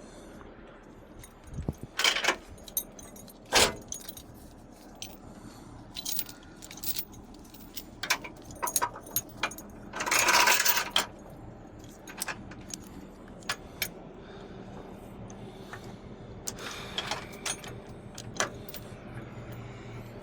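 Loose metal clinking and rattling in irregular bursts, with a louder scraping rush about halfway through, over a truck engine running steadily.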